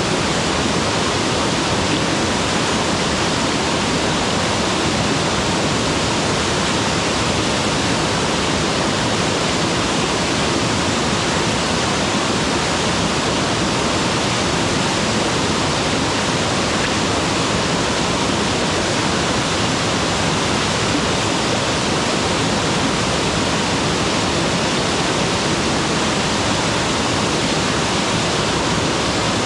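Mountain waterfall: a steady, loud rush of falling water, even and unbroken throughout.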